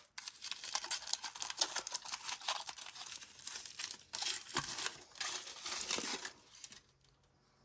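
Wrapper crinkling and tearing as a surprise egg is unwrapped by hand. The crinkling is dense and irregular, and it stops about six seconds in.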